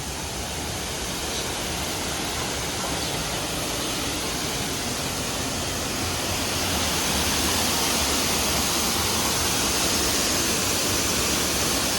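Steady rushing of falling water from a waterfall, an even roar that grows a little louder about halfway through.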